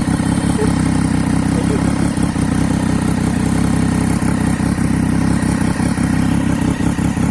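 Superbike engine running steadily at an even speed, with no revving.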